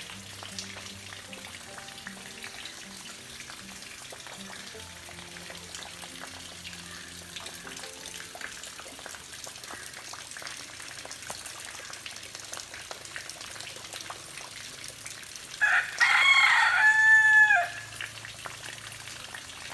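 A rooster crows once near the end, a loud call of under two seconds that drops in pitch as it finishes.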